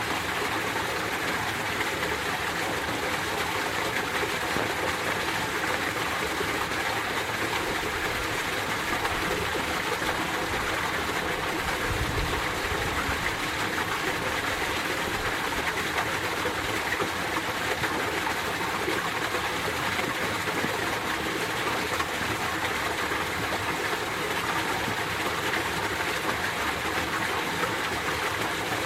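Winter mountain stream running over rocks, a steady, even rushing of water with no change in level.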